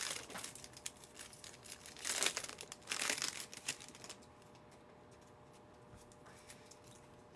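Foil trading-card pack wrappers crinkling and tearing as packs are ripped open, in several rustling bursts over the first four seconds; after that only a few faint light ticks.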